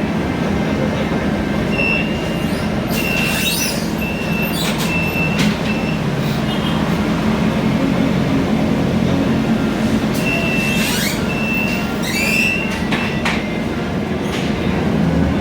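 Inside a Scania K320iA CNG city bus on the move: a steady low engine and road rumble, with two spells of short high squeals and rattling clicks, a few seconds in and again past the middle.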